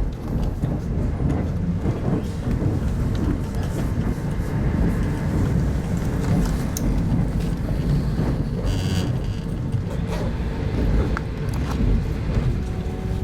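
Steady rumble of a passenger train running on the line, heard from inside a 25T-series soft-seat coach, with a few light clicks and a brief rattle about nine seconds in.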